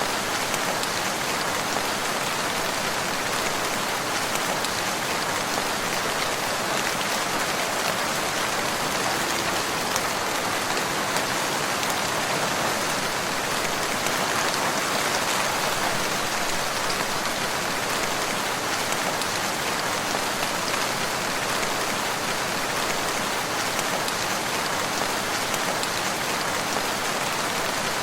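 Steady rain falling, an even, unbroken hiss of drops with no lulls or thunder.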